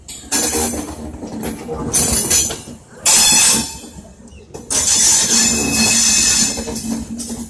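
Rajdhani Express passenger train rolling past at close range, its wheels rumbling on the rails, with several loud pitched blasts. The longest runs about two seconds near the end.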